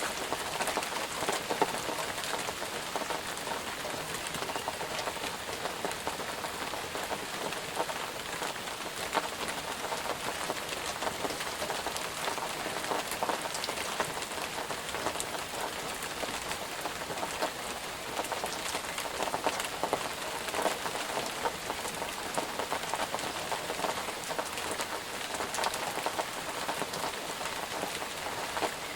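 Steady rain falling on a surface, a dense even patter with many individual drops ticking through it.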